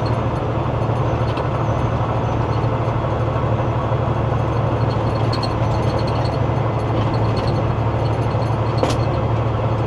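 Steady engine drone and road noise inside a semi-truck's cab while driving, a constant low hum under an even rush.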